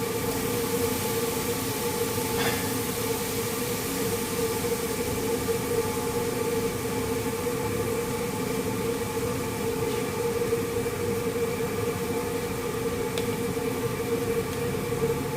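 A steady machine hum: a constant whine over an even hiss, with a couple of faint clicks.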